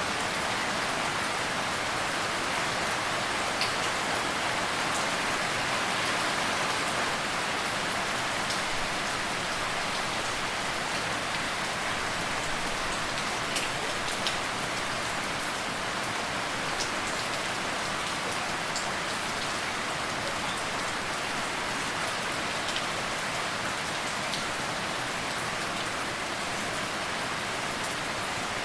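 Steady rain falling, an even hiss with scattered distinct drops ticking on a surface.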